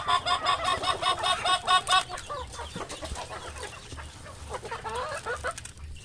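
Native chickens clucking: a fast run of repeated clucks, about six a second, for the first two seconds, then softer, scattered clucks.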